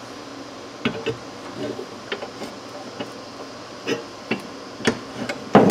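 Scattered light clicks and knocks, about one every half second to second, with a louder clatter near the end: tools and steel pieces being handled on a workbench.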